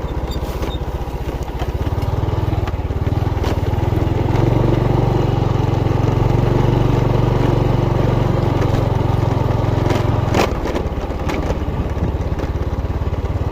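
Motorcycle engine running steadily while riding. It picks up about two seconds in and eases briefly near the ten-second mark, where there is a sharp click.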